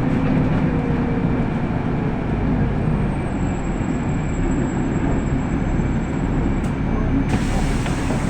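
City bus cabin noise: the bus's engine running and a steady low rumble through the passenger saloon, with a brighter hiss coming in near the end.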